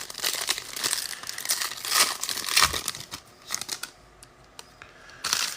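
Foil trading-card pack wrappers being torn open and crinkled by hand, with the rustle and light clicks of cards being handled as the crinkling thins out after about three seconds.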